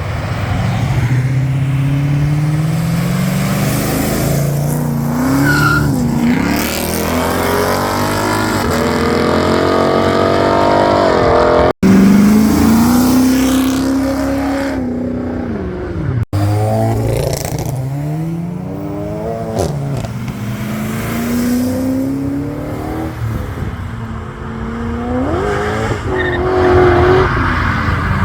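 Loud car engines accelerating hard, several times over: each climbs in pitch through the revs, drops back at a gear change and climbs again. The sound cuts out abruptly for an instant twice, about 12 and 16 seconds in.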